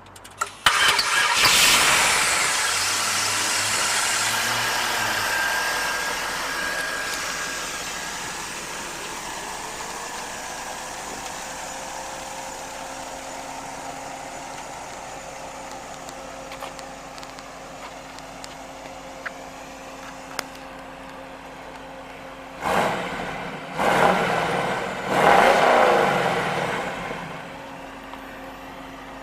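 A 1995 Chevrolet LT1 5.7-litre V8 starting up, running at a high idle that slowly settles to a steady idle, then revved a few times near the end.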